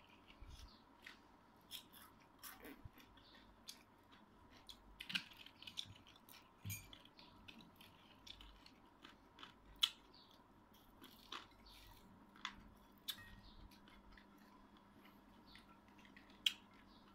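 Close, irregular chewing and small crisp crunches of dried salted fish (tuyo and danggit) and rice eaten by hand, with scattered sharp clicks of mouth and fingers, two of them louder, about ten seconds in and near the end.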